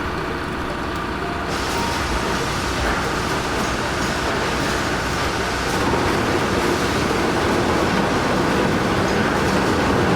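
Heavy diesel vehicle engine running steadily under load, with rolling and mechanical noise, getting fuller and louder about a second and a half in and again past the middle.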